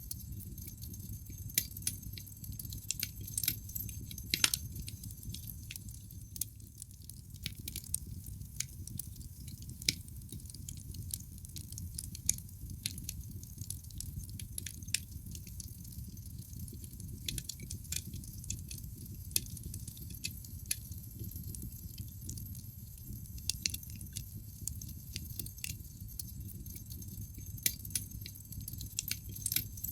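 Wood fire crackling in a fireplace: irregular sharp pops and snaps, a few louder than the rest, over a low steady rumble of the burning logs.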